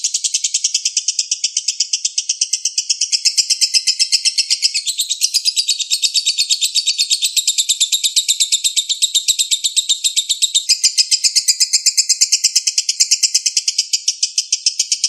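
Lovebird 'ngekek': a long unbroken high chattering trill of rapid repeated notes, about seven or eight a second, with slight shifts in tone about five and eleven seconds in.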